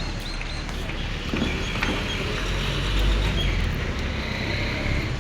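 Steady low engine rumble, with a few faint short high tones over it.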